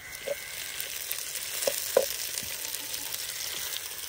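Food sizzling as it fries in hot oil in a karahi, the hiss swelling at the start, with a few short knocks about a third of a second in and again around the middle.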